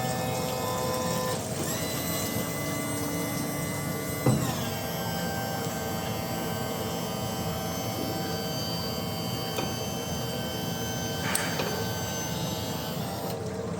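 Honda BF75A outboard motor running steadily with a mechanical whine made of several steady tones. The pitch shifts up slightly about a second and a half in and drops noticeably about four seconds in.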